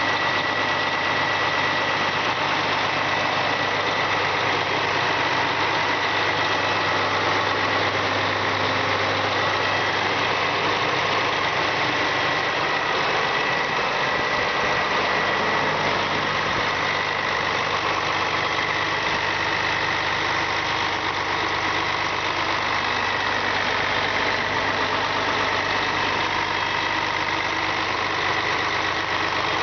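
Diesel engine from a Claas 870 forage harvester running steadily, with a thin high-pitched whine held over the engine note.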